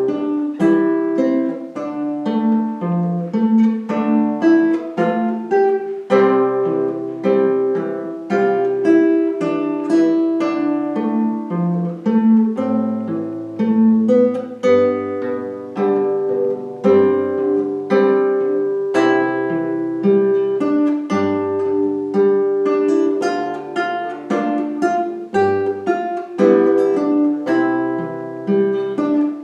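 Solo guitar played fingerstyle: a plucked melody over a line of lower bass notes, each note struck and left to ring.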